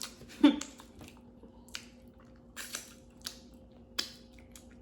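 Wet eating noises: a few short smacks and sucking sounds of someone licking food off his fingers, spread a second or so apart, over a faint steady hum.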